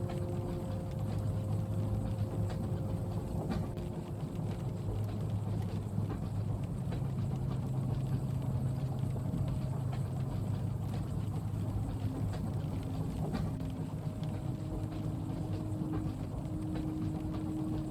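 Steady low rumble of a moving train heard inside the carriage, with faint held hum tones, light rain on the window and a few scattered ticks.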